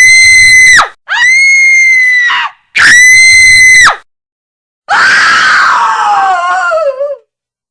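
Woman's screams, very loud: three shrill, held screams in quick succession, then a longer scream that wavers and falls in pitch before breaking off.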